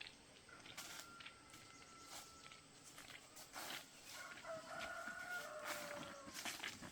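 Rooster crowing faintly, two long drawn-out calls, the second about four and a half seconds in, with scattered small knocks and rustles.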